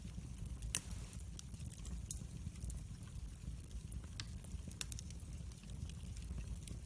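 Wood fire crackling: irregular sharp pops and snaps over a low, steady rumble, with one louder pop just under a second in.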